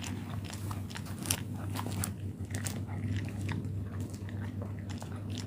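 A husky crunching and chewing raw chicken drumsticks, bones cracking in irregular sharp crunches several times a second, over a steady low hum.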